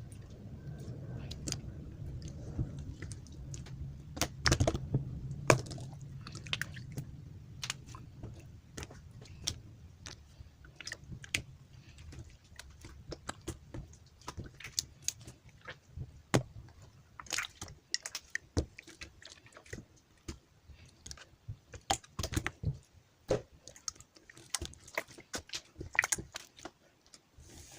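Clear slime with colourful pearl bead toppings being worked by hand, giving a dense run of irregular sharp clicks and crackles.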